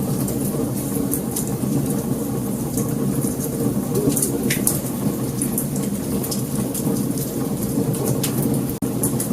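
Wood fire burning, with many sharp crackles and pops over a steady low rumble. The sound cuts out for an instant near the end.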